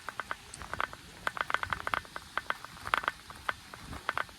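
Rapid, irregular light ticking and pattering taps.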